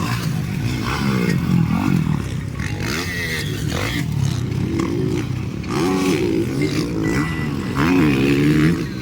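Motocross bike engines revving up and down repeatedly as riders race around the track, several pitches overlapping.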